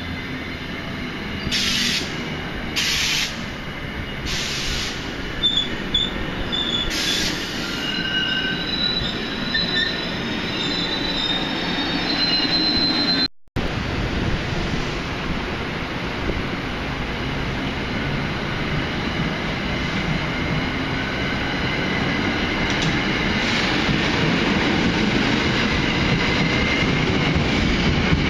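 Electric passenger trains running through a station: wheels on rail rumbling, with thin high-pitched squeals for several seconds in the first half. After a brief break, another train comes by close, its rumble slowly growing louder.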